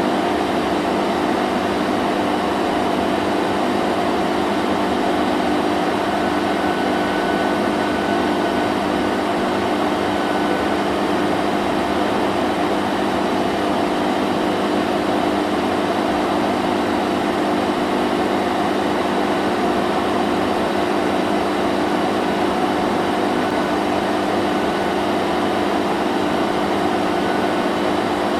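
Vacuum cleaner running steadily: an even rushing noise over a constant hum that does not change.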